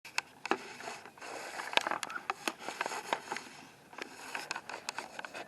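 Irregular clicks, knocks and scraping of something mechanical being handled, with no even rhythm.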